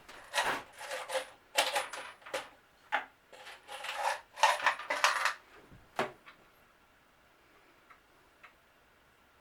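Clattering and clinking of small hard objects being handled, in a run of irregular bursts for about six seconds, then only a few faint ticks.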